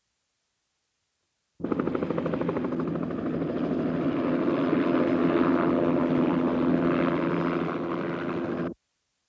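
Police helicopter running, its rotor chopping in a fast, even pulse over a steady engine hum. The sound cuts in about a second and a half in and cuts off abruptly near the end.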